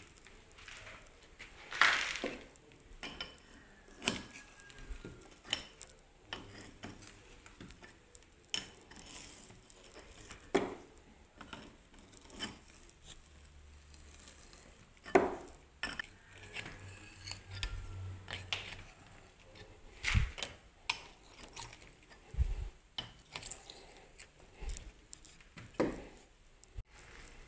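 Scattered sharp clicks and knocks of hand tools on metal and brick while the fireplace arch and its bolted lintel are set and tightened.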